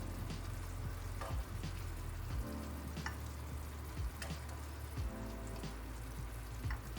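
Soy-based chicken adobo sauce bubbling and sizzling in the pan as it reduces and thickens, with a few sharp pops.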